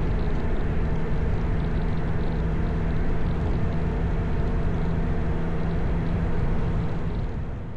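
Motorcycle engine running at a steady cruising speed with steady wind and road noise, the pitch holding constant.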